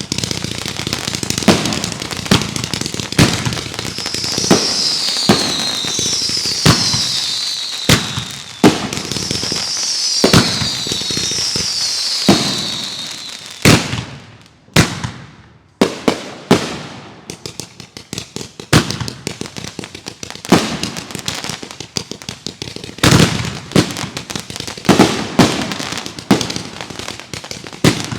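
Consumer fireworks going off in a rapid series of sharp bangs and crackles, with four high whistles falling in pitch between about 4 and 13 seconds in. There is a short lull about halfway through before the bangs pick up again.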